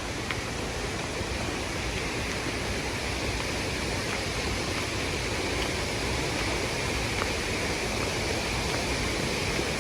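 Tad Yeuang waterfall rushing: a steady, even roar of falling water.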